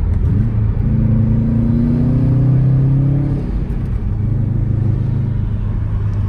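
Car engine accelerating, its pitch rising steadily for about three seconds, then easing off to a steady low drone.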